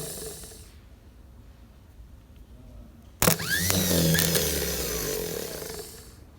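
A sharp click about three seconds in, then a starter motor whirring with a gliding whine for about two and a half seconds before fading away.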